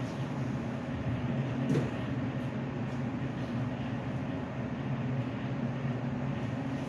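Steady low mechanical hum with a faint rushing haze, with one brief tick about two seconds in.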